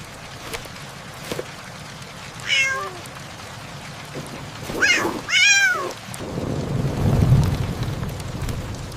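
Steady rain with a cat meowing: one meow about two and a half seconds in and two louder ones around five seconds. A low rumble of thunder follows from about six seconds in, loudest about a second later.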